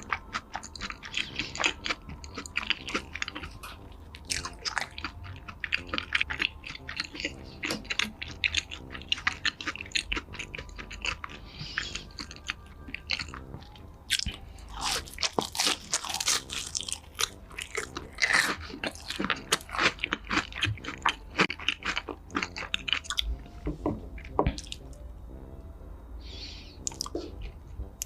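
Close-miked crunchy chewing and biting of food, with dense, irregular crackles that grow busiest about halfway through.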